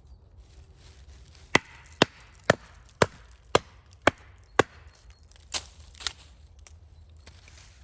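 Chopping on wood: seven sharp strokes about two a second, then, after a short pause, two heavier ones.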